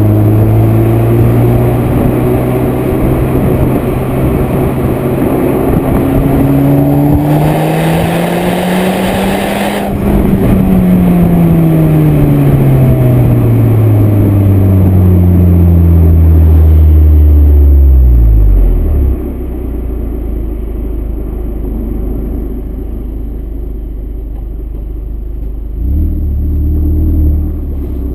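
Seat Leon Cupra R's turbocharged four-cylinder engine through a stage 2 exhaust (downpipe and high-flow sport cat), pulling up through the revs for about ten seconds with a brief hiss near the top, then running down steadily as it slows. It settles to a low, steady rumble a little past halfway, with a short rev near the end.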